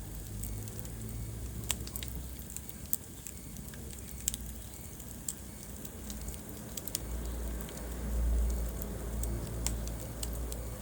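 Wood fire burning in a fireplace: scattered sharp crackles and pops over a steady low rumble of the flames, which swells about eight seconds in.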